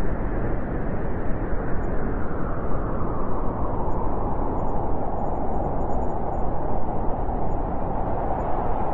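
Low, steady rumble of rolling thunder, continuous and without any single sharp crack.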